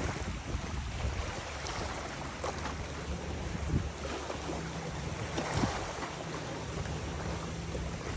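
Wind buffeting the microphone over the rush of river water, with a low hum that comes and goes.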